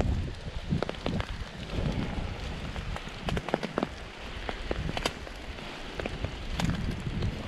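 Rain falling, with many scattered sharp taps of drops landing close to the microphone over a steady hiss. A low wind rumble on the microphone is loudest at the very start, mixed with footsteps on leaf litter.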